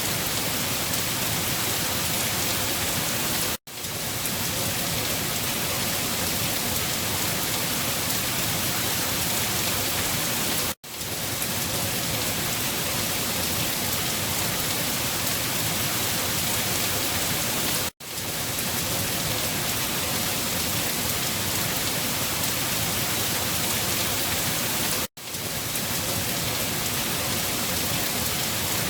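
Steady, dense rain hiss. It cuts out to near silence for an instant four times, about every seven seconds, the seams of a looped rain recording.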